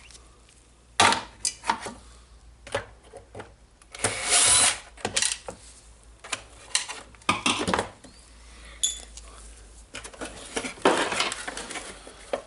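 Hand work on a DeWalt site radio's plastic housing and internals during disassembly: irregular clicks and knocks, with a few short bursts of scraping and rattling.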